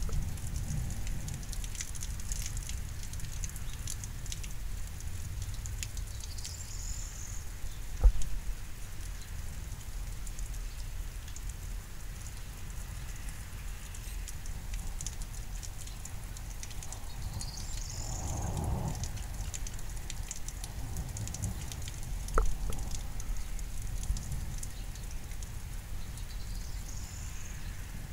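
Steady patter of rain during a thunderstorm, with wind rumbling on the microphone and a swell of deeper rumble about two-thirds of the way through. Two sharp knocks come about 8 and 22 seconds in, and short high chirps recur about every ten seconds.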